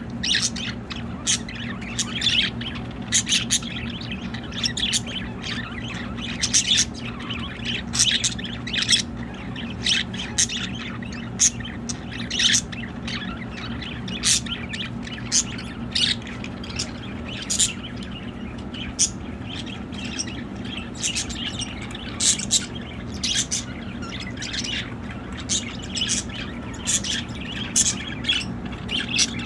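Several pet budgerigars chirping and squawking, with short sharp calls following each other closely over a steady low hum.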